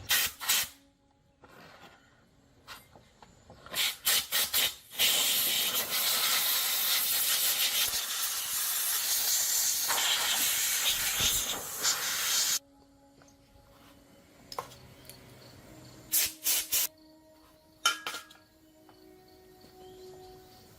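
A few sharp clicks and knocks, then a loud steady hiss lasting about seven seconds that cuts off suddenly, followed by a few more clicks.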